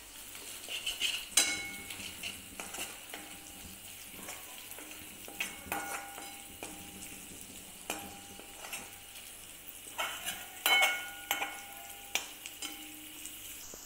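Onion, green chilli and ginger-garlic paste sizzling in hot oil in a metal kadhai, stirred with a perforated metal spoon that scrapes and clinks against the pan. The loudest clinks come about a second and a half in and again near eleven seconds.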